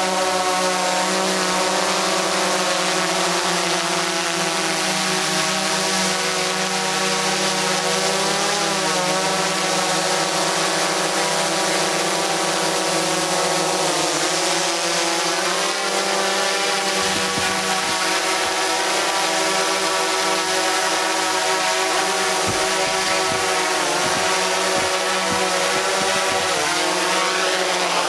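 DJI Mavic 2 quadcopter's four propellers whining steadily close by, the pitch dipping and rising again several times as the drone adjusts its throttle.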